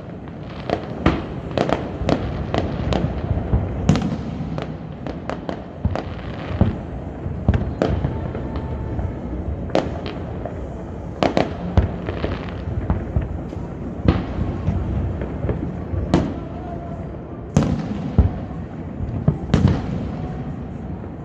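Fireworks display going off in quick succession: a continuous run of booming shell bursts and sharp bangs with crackle, several each second, over a steady low rumble.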